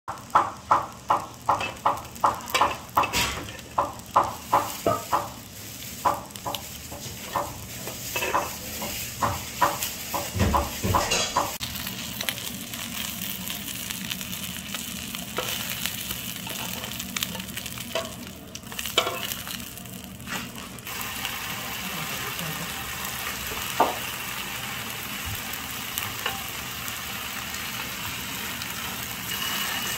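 Oil sizzling steadily on a griddle as battered jeon and tofu slices pan-fry. Over roughly the first ten seconds a quick, even tapping, about two to three beats a second, rides over the sizzle, and a few single clicks come later.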